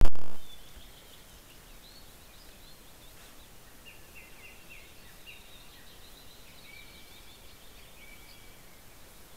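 Songbirds singing faintly over a steady hiss: chirps and short trills, a run of quick downward-sliding notes around the middle and thin held whistles near the end. A loud thump at the very start dies away within half a second.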